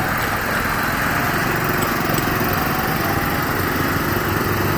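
Hero Honda Passion Pro's 100cc single-cylinder engine running steadily.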